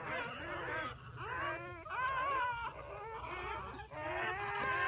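Newborn puppies squealing and whimpering, several high, wavering cries overlapping.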